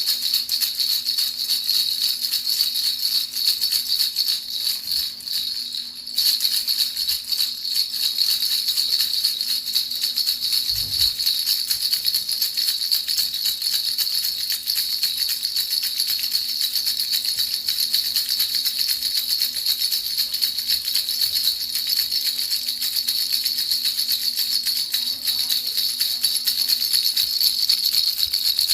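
Baby rattle shaken continuously, a fast, even, high-pitched rattling used as white noise, dipping briefly about five seconds in.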